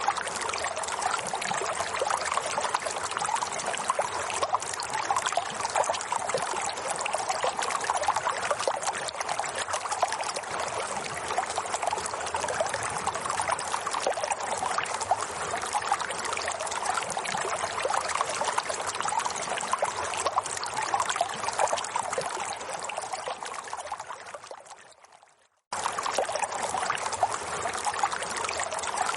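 Steady trickling, splashing water, like a small stream. It fades away a little over 23 seconds in, stops briefly, then cuts straight back in at full level.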